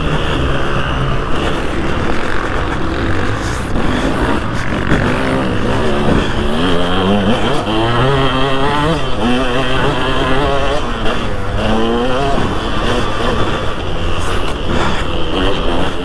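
Single-cylinder two-stroke engine of a 2003 KTM 200 SX motocross bike, revved hard on track, its pitch climbing and dropping again and again as the throttle is worked and gears change.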